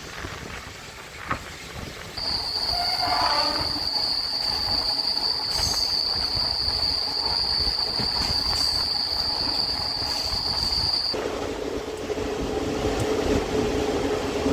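MEMU train running, its wheels giving a loud, steady high-pitched squeal that starts about two seconds in and cuts off suddenly after about eleven seconds, leaving a lower steady hum from the train.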